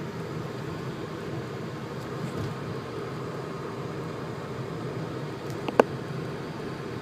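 Steady engine and road noise heard inside a moving car, with one sharp click about six seconds in.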